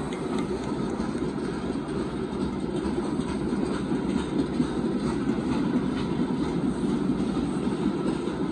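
Loaded Union Pacific rock train's open-top hopper cars rolling past: a steady rumble of steel wheels on the rails, with occasional faint clicks.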